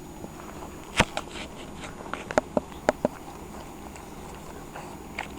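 Puppies playing: a sharp knock about a second in, then a quick run of short clicks and brief squeaks over the next two seconds.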